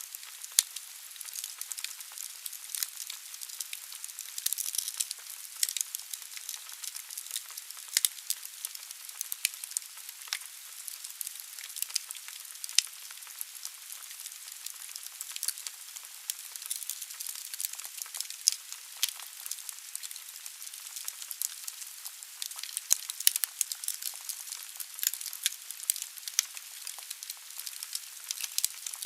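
Wood fire burning in a fireplace: a steady hiss with dense, irregular crackles and pops from the burning logs.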